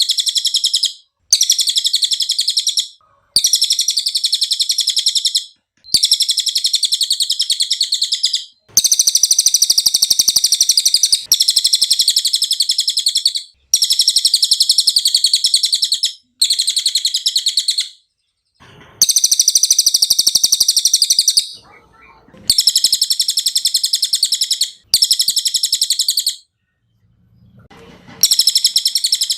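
Cililin songbird singing: about ten bursts of rapid, very high-pitched chirping trills, each one to three seconds long, with short pauses between them.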